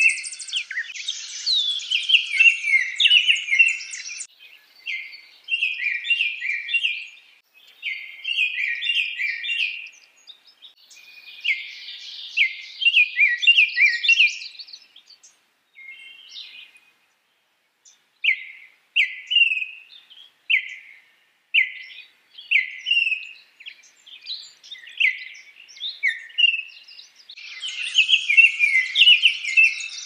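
Baltimore oriole singing: short phrases of quick, down-slurred whistled notes, then a run of single whistles after a brief pause midway. The calling is denser and busier at the start and near the end.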